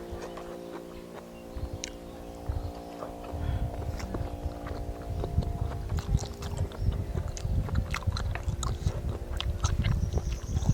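A person chewing a mouthful of food close to the microphone, with wet mouth clicks and smacks. It starts about three seconds in, over a steady low hum.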